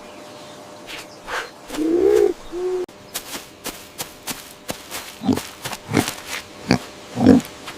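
Short low-pitched bird calls: one rising call about two seconds in and a shorter one right after, then a series of brief low calls in the second half over a run of sharp clicks.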